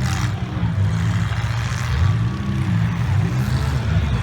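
Demolition derby cars' engines running and revving, their pitch rising and falling unevenly as the drivers work the throttle.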